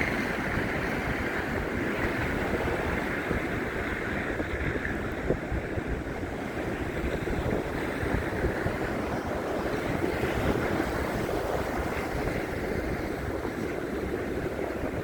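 Wind buffeting a handheld phone's microphone: a steady, rushing noise that rises and falls.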